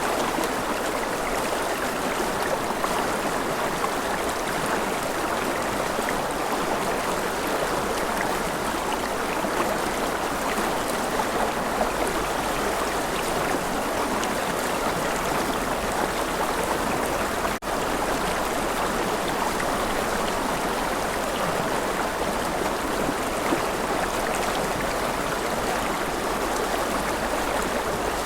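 A forest river flowing: a steady rush of running water, with one very brief dip in level about two-thirds through.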